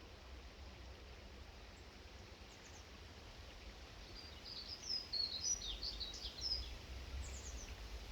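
Small garden birds chirping in a quick, high twittering run from about halfway through, with a few single chirps before and after, over a low steady background rumble.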